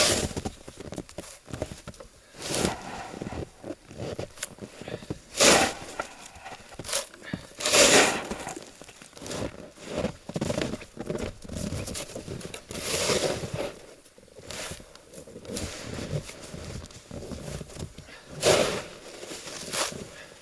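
Snow being shovelled off a roof: repeated crunching scrapes of the shovel in packed snow, with a few louder sweeping scrapes every few seconds.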